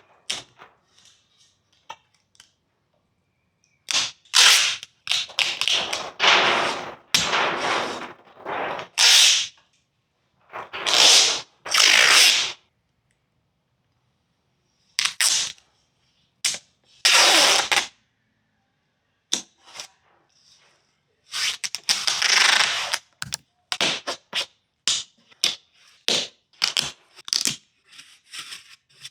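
Masking tape being pulled off the roll in quick rips and torn off, over and over, with short pauses between pulls.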